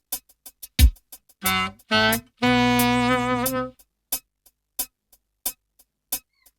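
A drum beat of steady light ticks with a single deep kick, and over it a saxophone playing two short notes and then a longer held note with slight vibrato. Only the ticking beat goes on after the notes.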